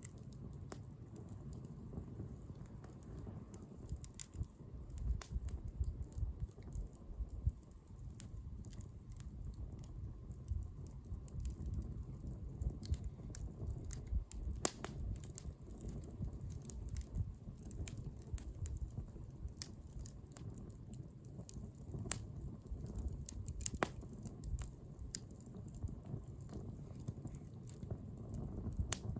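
Wood bonfire burning, its wood crackling and popping in irregular sharp snaps over a steady low rumble.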